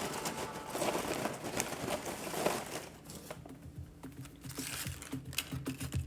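Crinkling and rustling handling noise, dense for about the first three seconds, then sparser, with faint low steady tones underneath.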